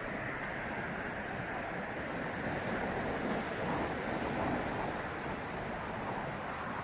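Steady outdoor background noise with a bird giving four quick, high, falling chirps about two and a half seconds in.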